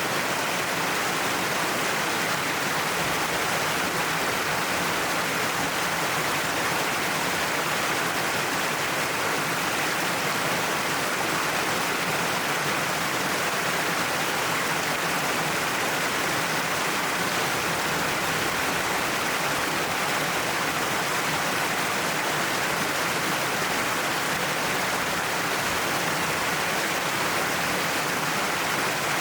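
Waterfall falling steadily down a rock cliff: an even, unbroken rush of water, strongest in the mid-range, with no change in level.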